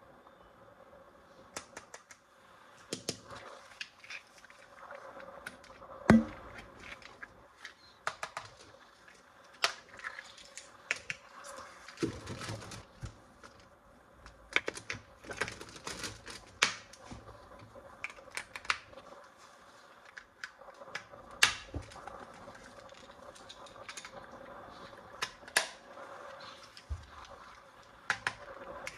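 Hands handling plastic toys and packaging in an unboxing: a run of irregular clicks, taps and light rustles, with one louder knock about six seconds in.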